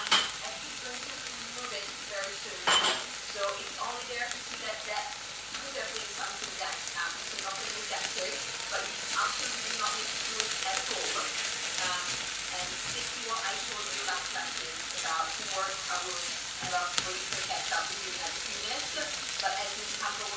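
Chopped pepper and tomato frying in an oiled pan: a steady sizzle with many small crackles and pops. Two sharp knocks, about 3 seconds apart near the start, are the loudest sounds.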